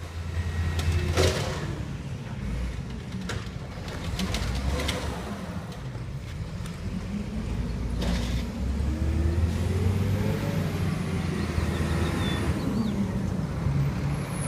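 Garbage truck engine running, loud and steady, with a few short squeaks and hisses from the truck.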